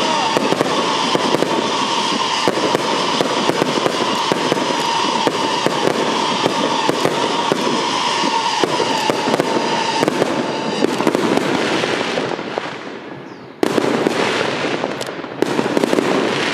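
Aerial fireworks display: a dense barrage of rapid crackling reports and bangs with a steady high tone beneath. The barrage dies down about twelve seconds in, then two loud bursts follow about two seconds apart.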